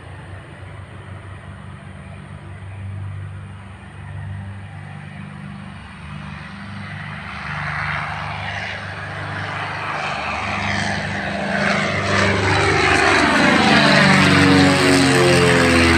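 Airliner approaching and passing close by, its engine noise swelling from about seven seconds in with a sweeping, phasing whoosh, loudest near the end. A low engine hum runs underneath.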